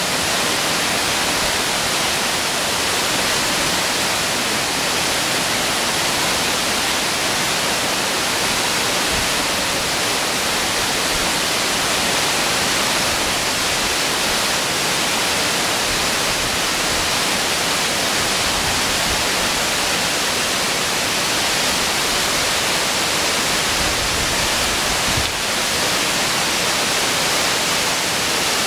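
Waterfall on a mountain stream: a loud, steady rush of falling water, even and unchanging throughout.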